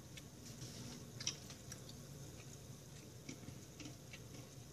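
Faint mouth sounds of chewing fried rice with peanuts and cashews: scattered soft crunches and clicks, one a little sharper about a second in.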